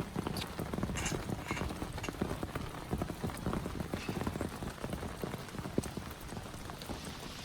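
Heavy rain, with big drops striking close by in a dense, irregular patter of knocks.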